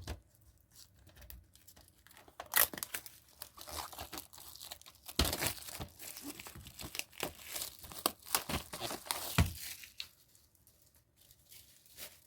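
DVD case packaging being torn and crinkled by hand, in irregular crackling bursts that die down near the end.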